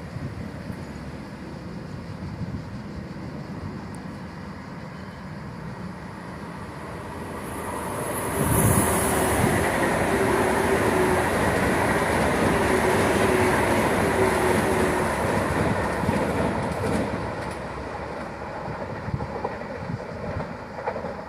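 Train passing along the station tracks. Its rumble builds from about six seconds in, stays loud for about eight seconds with a steady whine, then fades away.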